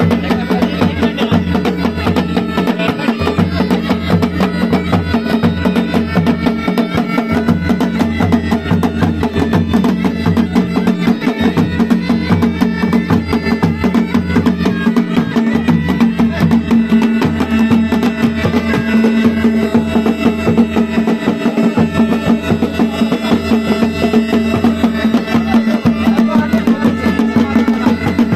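Pahari hill band music: mashak been bagpipe playing a melody over a steady drone, with dhol and nagada drums beating a fast, continuous rhythm.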